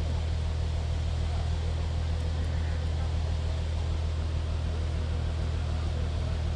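A heavy logging machine's engine idling steadily, a constant low hum with no change in speed.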